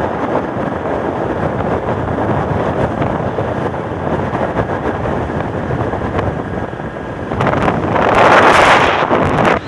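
Wind buffeting the microphone in a steady rush, swelling louder about eight seconds in.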